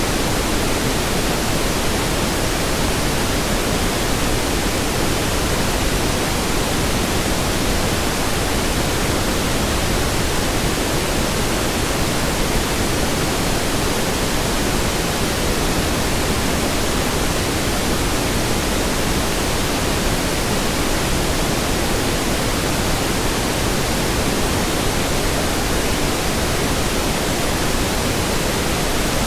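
Steady synthetic pink noise: an even, unchanging hiss spread across the whole range, with no other sound.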